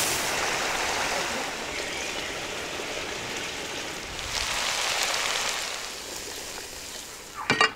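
Food sizzling in hot oil in a frying pan, a steady hiss that swells again about four seconds in as food is tipped into the pan. A few sharp clacks near the end.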